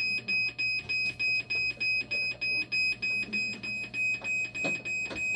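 Dialysis machine alarm beeping rapidly: a high, piercing tone pulsing on and off about three times a second. It is the machine's warning for the acid and bicarb pump fault.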